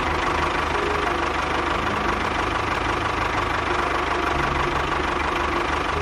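A motor running steadily, like a small tractor engine idling with a rapid knocking rhythm.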